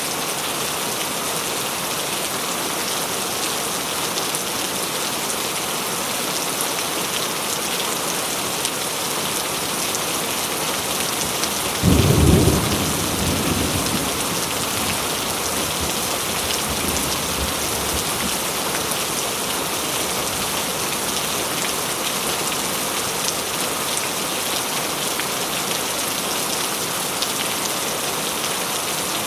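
Steady heavy rain falling, with a single clap of thunder about twelve seconds in that rumbles away over a few seconds.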